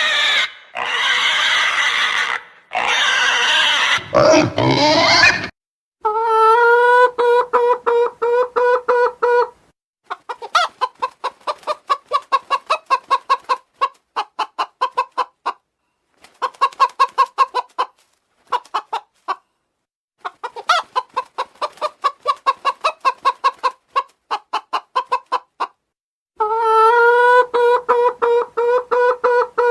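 Pig squealing in harsh bursts for about the first five seconds, then a hen clucking in long, rapid runs of short clucks, broken by a few pauses.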